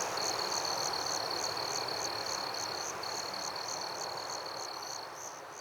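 Jungle night chorus of frogs and insects. A steady high trill with short breaks and a higher chirp repeating about three times a second sit over a dense hiss of background calling, all fading out gradually.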